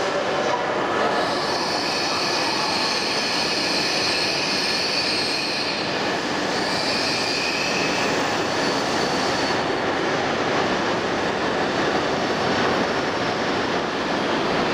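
E2 series Shinkansen trainset running along the platform, a steady loud rumble and rush with a high squeal over it from about a second in, fading around the eight-second mark.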